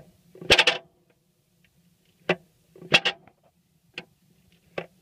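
Sharp metallic clicks and clunks from the International B275 tractor's clutch release mechanism as the pedal is worked: a loud cluster about half a second in, then a few single knocks. The clutch is seized and does not release.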